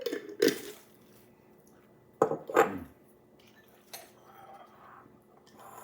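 Eating utensils clinking and scraping against a dish: a pair of sharp clinks at the start, another louder pair a little past two seconds in, and a fainter clink near four seconds.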